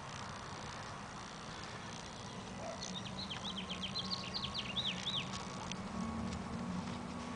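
A small bird singing a quick run of about a dozen high, falling chirps for a couple of seconds, a few seconds in, over a low steady hum.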